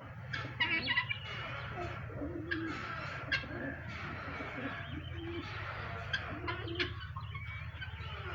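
A flock of kept birds calling together: short low cooing calls repeat among many sharp higher chirps, over a steady low hum.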